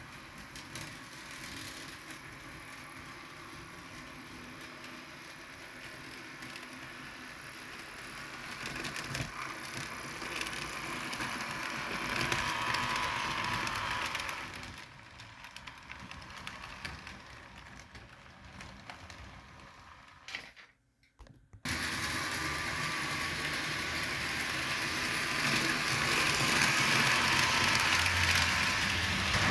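Model diesel locomotives pulling a train along the track: a steady mechanical whir with fine rapid clicking of wheels and drive gears. It swells as the train nears, eases off, drops out briefly about two-thirds of the way through, then comes back louder.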